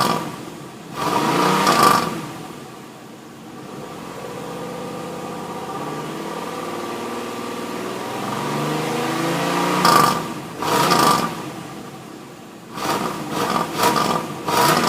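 1990 Cadillac V8 engine being revved while parked: two sharp revs near the start, a slow climb in revs to a peak about ten seconds in, then several quick blips of the throttle near the end.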